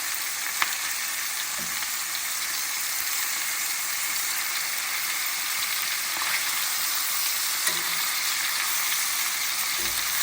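Chicken thighs searing in hot olive oil in a frying pan, a steady sizzle with a few light clicks from the pieces being turned over to sear the other side.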